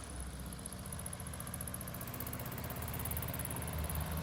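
1973 VW Super Beetle's air-cooled flat-four engine running steadily, a low even hum that swells slightly near the end.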